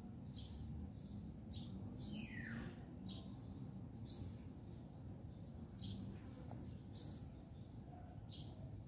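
Small birds chirping: short high notes about once a second, with three louder sweeping calls, over a steady low background rumble.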